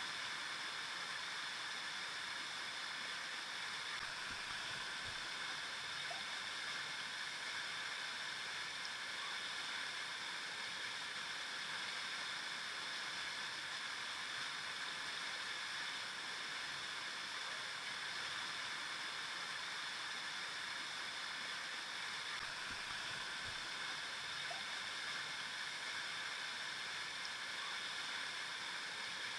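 River water flowing, a steady rush of water that holds an even level throughout.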